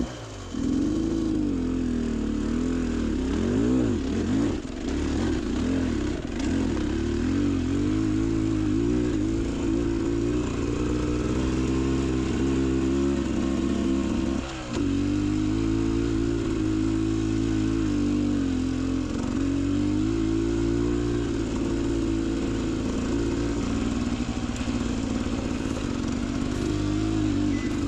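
Beta Xtrainer 300 two-stroke dirt bike engine running on the trail, its note rising and falling constantly with the throttle. The engine note drops out briefly about halfway through, then picks up again.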